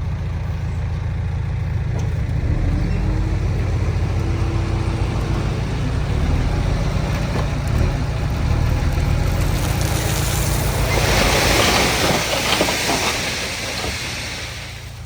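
Heavy diesel engine running under load with a deep, steady rumble. Late on, a loud rushing hiss swells for about three seconds and dies away, after which the sound grows quieter.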